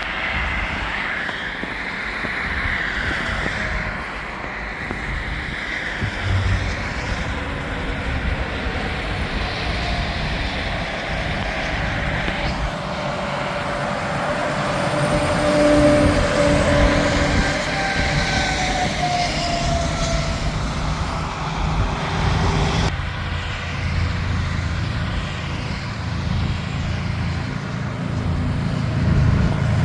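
Interstate highway traffic: trucks and cars passing at speed, with tyre and engine noise that grows louder as vehicles go by, most of all about halfway through and near the end.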